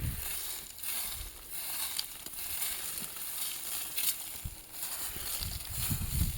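Repeated scratchy, rustling strokes on dry ground, with scattered low thuds that grow more frequent near the end.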